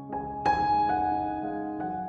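Slow, soft piano music: sustained notes ring and fade, with a loud chord struck about half a second in and another note near the end.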